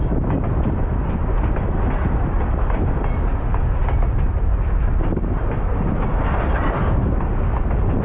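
Baldwin-Westinghouse electric steeplecab locomotive on the move along the track: a steady, heavy rumble.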